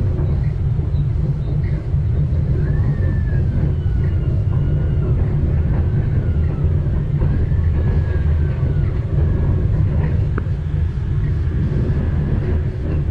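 ČKD Tatra light-rail car of Manila's MRT-3 running at low speed, heard from inside the car: a steady, heavy low rumble with faint whines that waver and slide in pitch, and a single click about ten seconds in.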